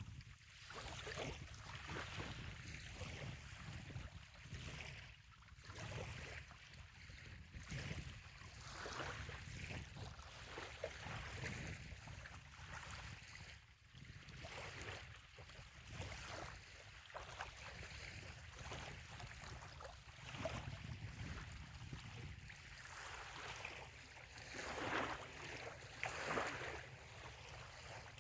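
Small waves lapping and splashing gently on a sandy bay shore, a soft swell every second or two, the loudest pair near the end. A low wind rumble runs underneath.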